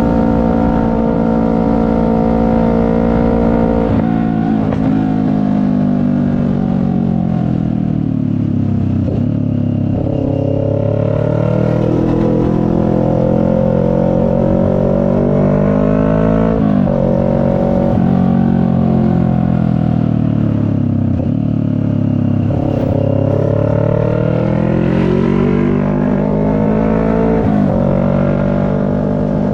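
CFMoto 400NK's parallel-twin engine under way, its pitch rising and falling as the bike accelerates and slows, with sudden pitch jumps at gear changes about 4, 16 and 27 seconds in, over steady wind and road noise.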